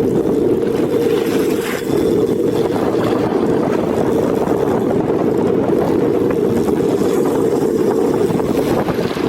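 Boat engine running steadily, a dense low rumble that holds an even level throughout.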